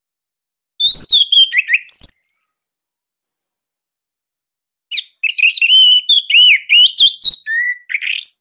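Orange-headed thrush singing: two phrases of rapid, varied whistled notes that glide up and down, a short one about a second in and a longer one from about five seconds in. The song is closely packed and loud, the kind kept-bird keepers use as a master song to teach or trigger other orange-headed thrushes to sing.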